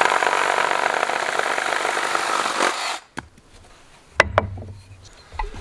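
A power tool cutting wood, running steadily and then stopping about three seconds in, followed by a few light knocks.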